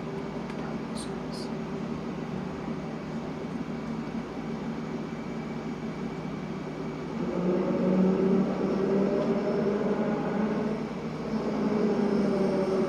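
London Underground train running, a steady rumble that grows louder from about seven seconds in, with a couple of brief high ticks near the start.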